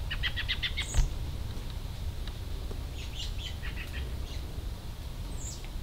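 A small songbird chirping: a quick run of about eight short chirps in the first second, a higher note just after, and another run of chirps about three seconds in, over a low background rumble.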